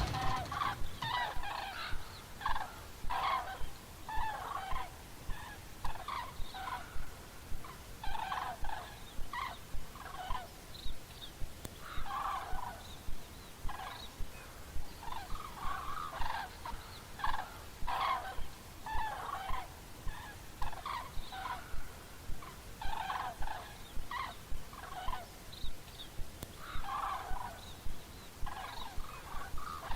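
Birds calling over and over, short calls coming in quick clusters with brief pauses between them.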